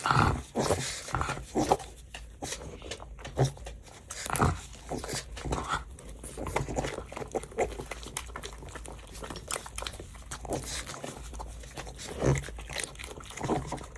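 A pug eating shrimp: irregular chewing and crunching, with short clicks and bites spread unevenly throughout.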